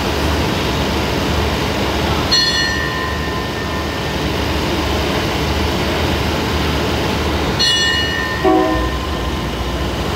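Diesel passenger train idling at the platform with a steady low hum. Two short high-pitched signal blasts sound about five seconds apart, then a brief lower horn toot comes about eight and a half seconds in. The engine's low note then strengthens as the train starts to pull away.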